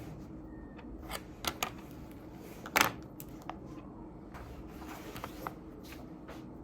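Scattered light clicks and taps over a steady low hum, with one louder knock about three seconds in.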